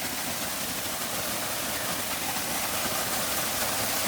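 Waterfall heard up close: a steady rush of falling and splashing water, getting slightly louder near the end.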